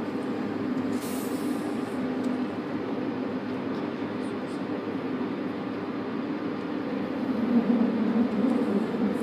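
Electric MOB Golden Pass Panoramic train heard from inside its front car: steady running noise of wheels on rails with a low motor hum, growing louder near the end.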